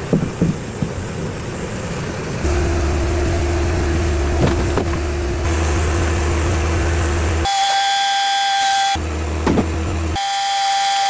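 Cooks AC36 band sawmill running, with knocks and clatter in the first couple of seconds, then a steady hum from about two and a half seconds in. Twice the hum gives way abruptly to a high, steady whine.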